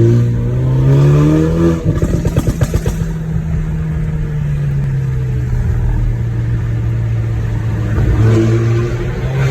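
VinFast Lux A 2.0 turbo engine through a full XEX sport exhaust with the catalytic converter removed and a remapped ECU. A rev blip rises in pitch, then a rapid string of pops and crackles comes as the revs drop. It settles to a steady idle, and another short blip comes near the end.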